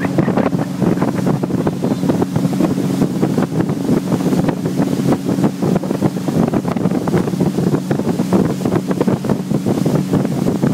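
Motorboat running under way with a steady low engine drone, wind buffeting the microphone and water rushing past the hull.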